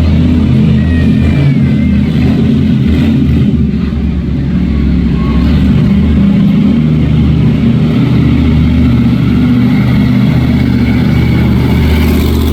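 Monster truck engine running loud and steady, with a short dip in level about four seconds in.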